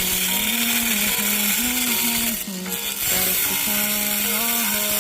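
Milwaukee 4-inch angle grinder with a metal cut-off wheel cutting through an old water pipe. Its whine drops in pitch as the wheel is pressed into the cut and rises again as the load eases, several times over.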